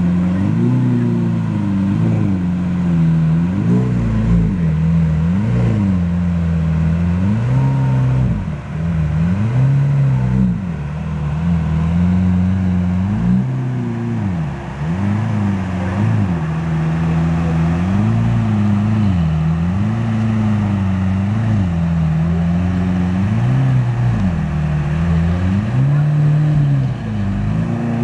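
Lamborghini Aventador LP700-4's V12 with an aftermarket Innotech exhaust, revved repeatedly while standing: short throttle blips, each rising and dropping back to idle, one every second or two, over a steady idle.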